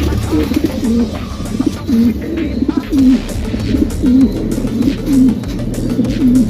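Jan Aarden racing pigeons cooing, a low bending coo about once a second, over a steady low hum.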